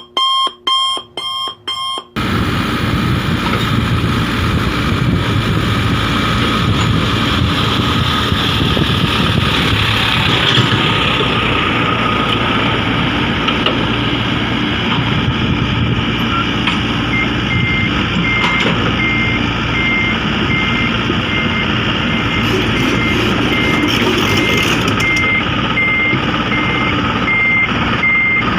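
Heavy diesel machinery, an excavator and dump truck, running steadily at an earthworks site. From a little past halfway, a reversing alarm beeps at an even, repeated rate.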